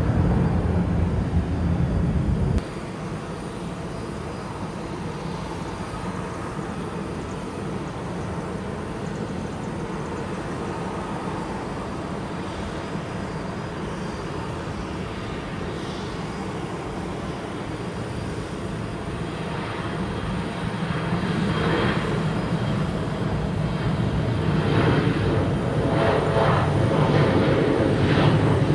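Jet airliner's engines running, a steady rushing noise that drops suddenly about two and a half seconds in, then grows steadily louder over the last third as an aircraft comes closer.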